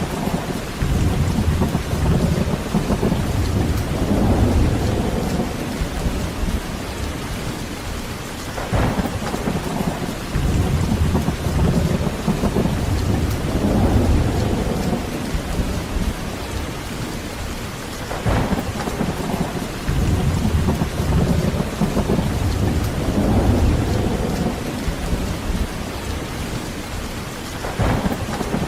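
Heavy rain falling steadily, with thunder rolling in about every nine seconds: each peal opens with a sharper crack and then rumbles low for several seconds.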